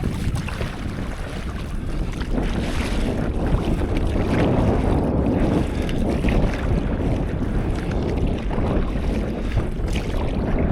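Wind buffeting the microphone over the wash of sea water around a stand-up paddleboard.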